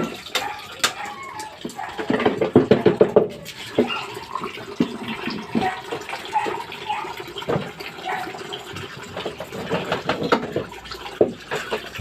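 Water running and splashing, with irregular knocks and clatter, busiest a couple of seconds in.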